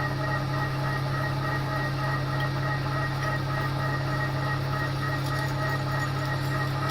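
TOS milling machine running steadily as a carbide drill bores through a hard snapped exhaust stud; the cut meets some resistance because the studs are tough.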